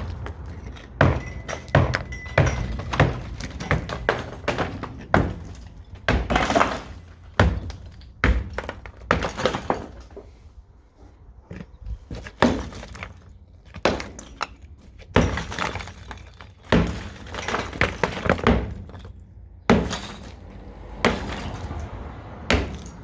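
Masonry wall being broken through: irregular heavy knocks and crashes of material breaking, with a short lull about halfway through.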